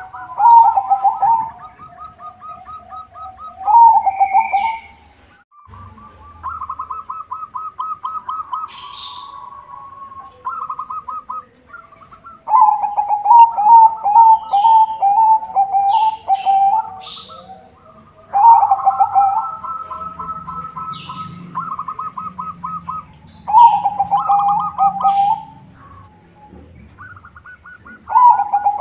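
Zebra doves (perkutut) cooing: repeated phrases of quick, stuttering notes, one after another with short pauses, some phrases overlapping. Brief high chirps from smaller birds come in between.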